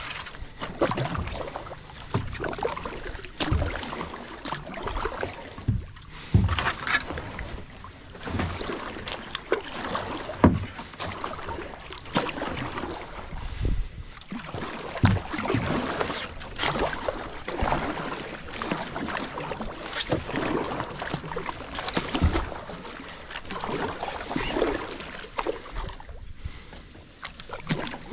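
Kayak paddling: the paddle blades dip and splash in the water in an irregular stroke rhythm, with occasional sharp knocks.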